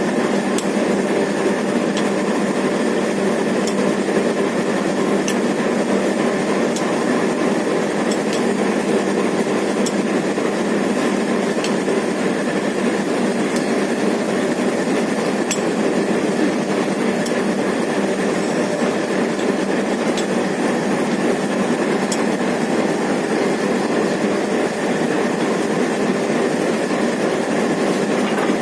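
Steady running noise of a railway train, with faint clicks every second or two.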